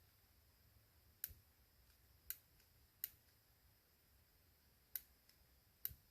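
Five faint, sharp clicks at uneven intervals against near silence.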